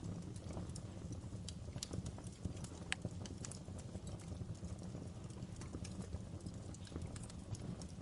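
Wood fire in a fireplace burning with a steady low rumble and sharp, irregular crackles and pops.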